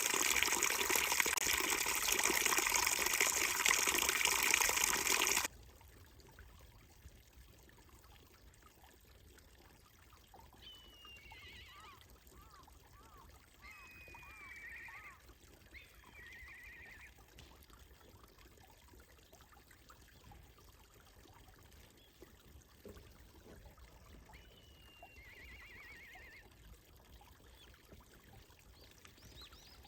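Steady rushing noise like running water that cuts off suddenly after about five seconds, followed by a quiet stretch with a few faint bird-like chirps.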